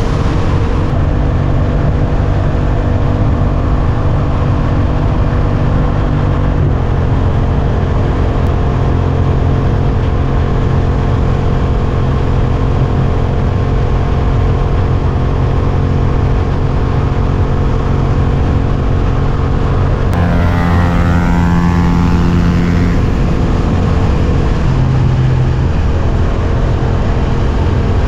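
Suzuki GSX-8S parallel-twin engine running at a steady cruise, with road and wind noise. The engine note steps to a new pitch about a second in and again about six seconds in. About twenty seconds in, a separate higher sound falls and then rises in pitch over about three seconds.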